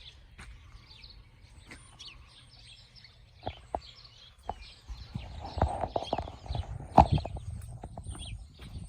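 Small birds chirping, with faint short calls throughout. In the second half there are irregular knocks and taps, the loudest about seven seconds in.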